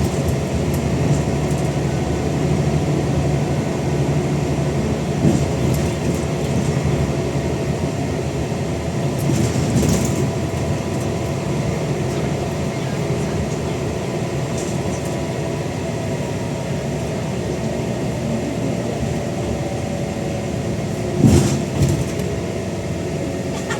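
Scania N94UD Omnidekka double-decker bus running under way, its engine and ZF automatic gearbox making a steady drone with a thin gearbox whine over it. The engine has a tired thrash. A few short knocks or rattles come about five seconds in, again near ten seconds, and once more near the end.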